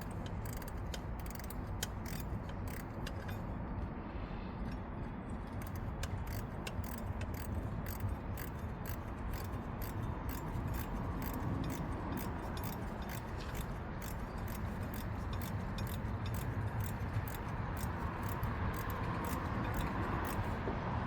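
Ratcheting wrench clicking steadily, a few clicks a second, as it is swung back and forth to slowly back out the last bolt holding a 2002 Honda CR-V's water pump, over a steady low hum.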